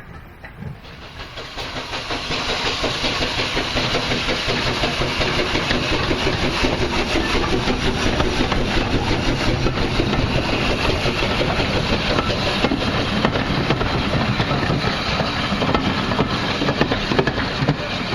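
Steam engine hissing steam, building up over the first two seconds and then holding steady.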